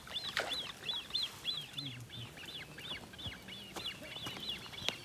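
A bird calling: a rapid, even series of short, high chirps, about four a second, that goes on without a break.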